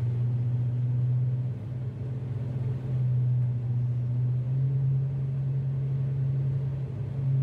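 Tugboat diesel engines running under power, a steady low drone that steps up in level at the start and dips briefly twice.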